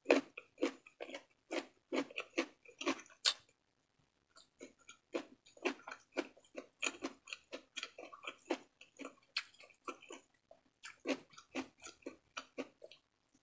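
Close-miked mouth sounds of someone chewing fried frog meat: a quick, irregular run of smacks and clicks, about two to three a second. They pause for about a second a little past three seconds in.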